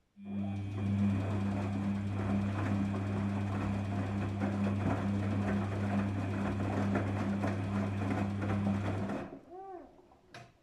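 Daewoo DWD-FT1013 washing machine running in its rinse cycle: a steady electric hum under a rushing, crackling noise that starts abruptly and cuts off about nine seconds in. A few short wavering tones follow as it stops, then a single click near the end.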